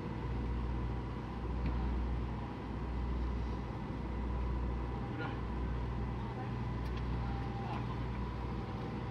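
Electric bus running: a steady low rumble that swells and eases, with a faint steady high whine and a few light clicks.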